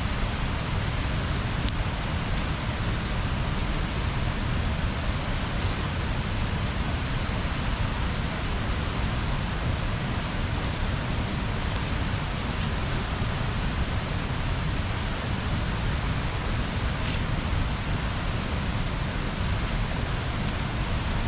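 Wood bonfire burning: a steady rushing hiss with a few faint crackles and pops, the clearest about 17 seconds in.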